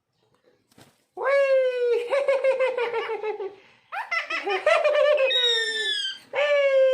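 Ringneck parrot making rapid, laugh-like chattering calls in three bouts, the first starting about a second in.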